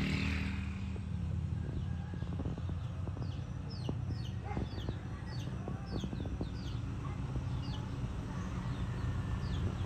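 Birds chirping in a run of short, quick falling notes over a steady low hum.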